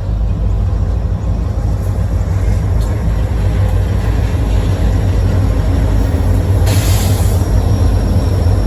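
Freight train running by with a steady, loud low rumble from its diesel locomotives and rolling cars, with a brief hiss about seven seconds in.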